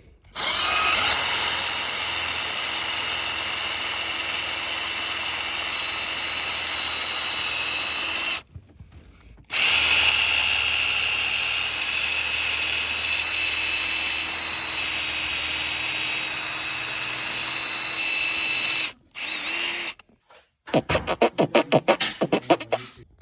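Power drill drilling out the steel rivets that hold a stock shifter in place, running steadily with a high whine. It stops briefly about eight seconds in, runs again for about nine seconds, then gives a short run and a rapid series of brief pulses near the end.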